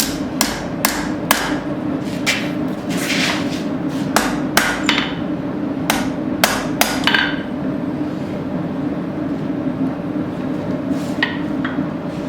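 Blacksmith's hammer striking hot steel on the anvil, irregular blows a few per second with a brief ring after each, straightening the forged bar. The blows stop about seven seconds in, with two lighter taps near the end, over a steady hum.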